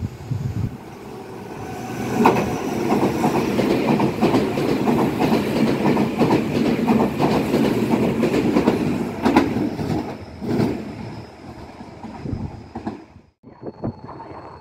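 Meitetsu electric train running along the platform: wheels clacking over the rail joints as it comes in. It swells from about two seconds in, stays loud for several seconds, then falls away and cuts off suddenly near the end.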